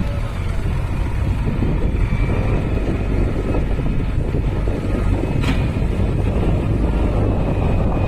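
Tractor engine running steadily with a deep, continuous rumble, wind buffeting the microphone.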